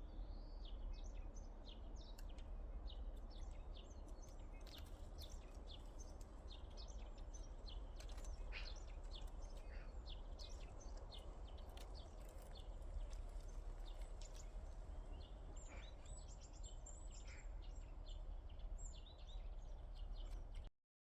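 Small birds chirping outdoors, many short high calls in quick succession over a steady low rumble. The sound cuts off suddenly near the end.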